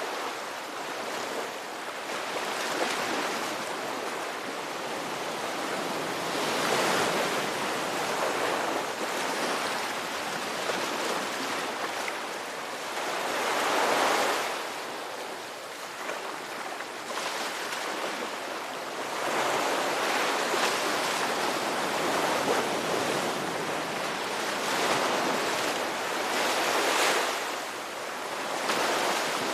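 Ocean surf: waves breaking and washing in, swelling to a rush every few seconds and falling back, loudest about halfway through and again near the end.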